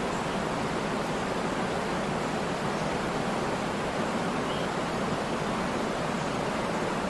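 Waterfall: water pouring and splashing in a continuous, steady rush with no breaks.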